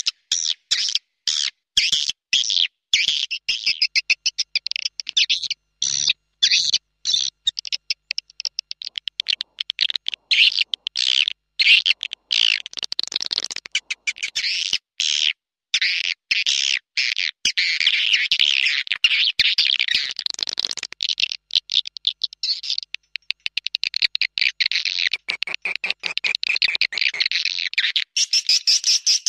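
Swiftlet calls: a lure recording played to attract swiftlets to a nesting house. Rapid, high-pitched twittering chatter comes in quick runs with short gaps, then runs on almost without a break through the second half.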